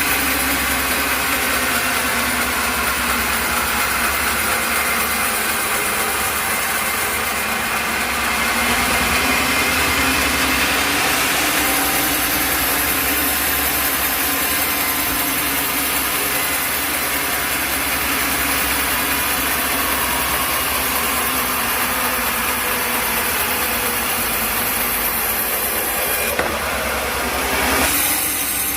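Sawmill machinery running steadily with engine-like noise. A high whine joins in partway through, and there is a short louder sound near the end.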